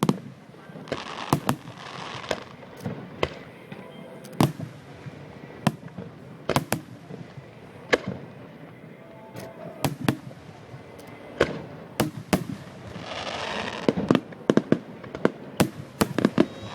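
Fireworks display: loud, sharp bangs of exploding shells at irregular intervals, sometimes several in quick succession, with two short stretches of dense noise, one about a second in and one near the end.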